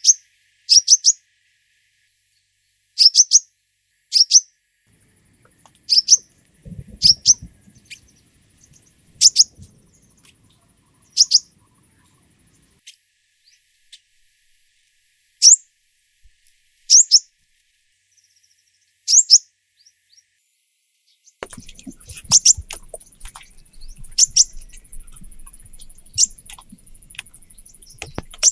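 Small bird chirping: short, high chirps, mostly in quick clusters of two or three, repeated every second or two. Near the end an irregular crackling, pattering noise sets in.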